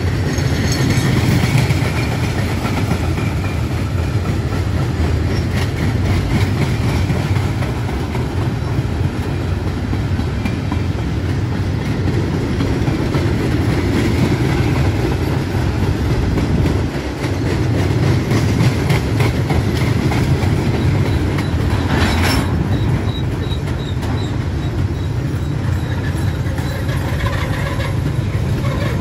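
Freight train of flatcars rolling past close by: a steady low rumble of the cars with wheel clatter over the rail joints and faint wheel squeal now and then.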